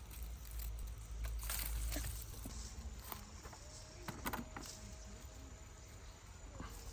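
Scattered rustles and sharp clicks over a low rumble that eases off after about two seconds.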